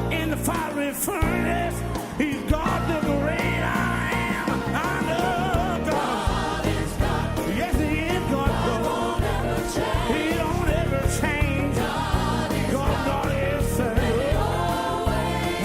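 Live gospel worship music: a band with drums and bass playing a steady beat, with sung vocal lines running over it.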